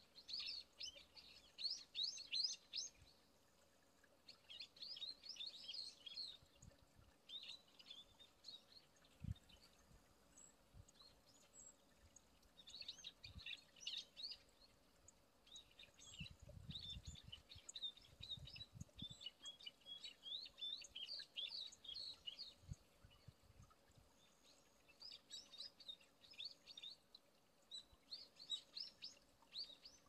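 Small birds chirping faintly in repeated bursts of quick high notes, with short gaps between the bursts. A brief low rumble comes a little past the middle.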